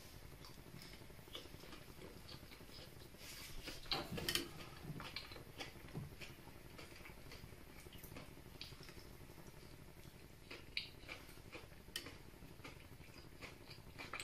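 Faint chewing and mouth sounds of someone eating a thin rolled pancake: scattered soft clicks and smacks, a little louder about four seconds in.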